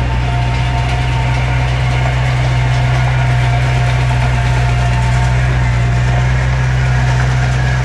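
Diesel engine of heavy earthmoving equipment running at a steady, even speed, with a thin steady whine over the low engine note.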